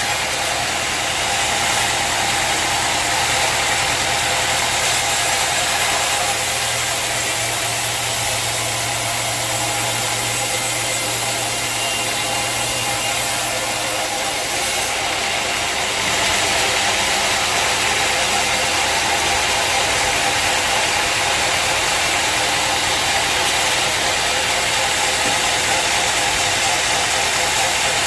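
Sawmill machinery running steadily, a continuous mechanical noise with a low hum that drops away about halfway through.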